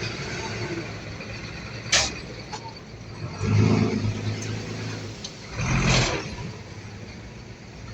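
Bulldozer diesel engine running, rising twice as it takes load, with one sharp knock about two seconds in.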